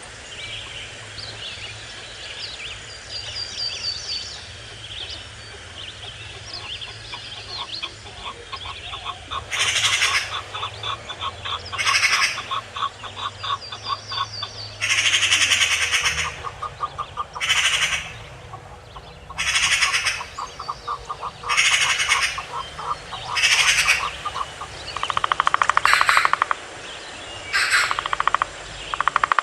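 Forest birds calling: small high chirps at first, then from about ten seconds in a bird gives loud, harsh, rasping calls about once every two seconds.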